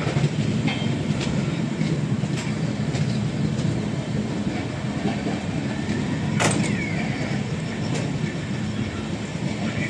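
Train running along the track, heard from on board: a steady rumble of wheels on rails with a few sharp clicks, the loudest about six and a half seconds in.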